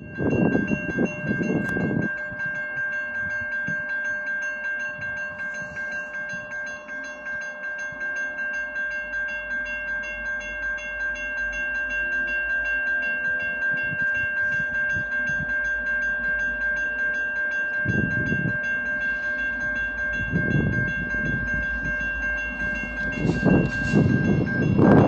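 Train on the tracks, with a steady high-pitched ringing tone over a low rumble that grows louder near the end.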